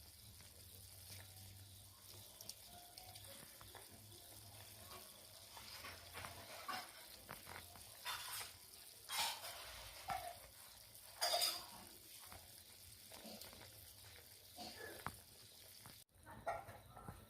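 Faint steady sizzling hiss of chicken cooking in a pot, with a few short, louder scraping strokes, the loudest about eight, nine and eleven seconds in.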